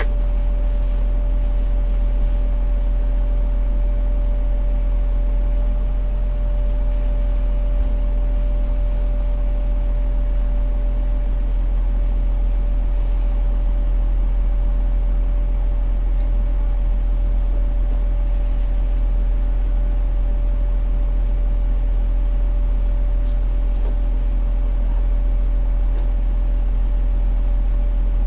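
Fire engine's diesel engine running steadily, heard from inside the cab as a constant low hum with a thin steady whine over it.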